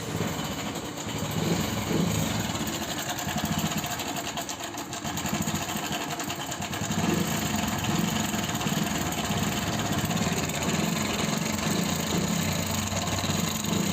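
Hero Passion Pro motorcycle's single-cylinder four-stroke engine running with a loud mechanical clatter from the engine. The mechanic traces the noise to a badly loose timing chain.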